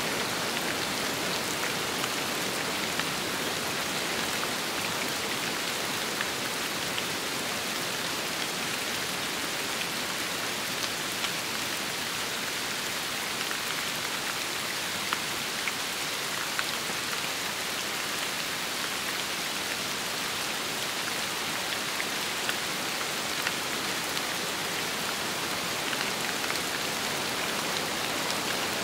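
Steady, even rain with scattered single drops ticking.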